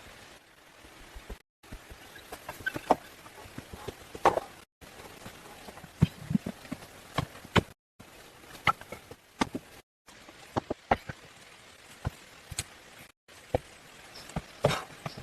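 Irregular sharp knocks and taps over a faint steady hiss, in short stretches broken by several abrupt cuts.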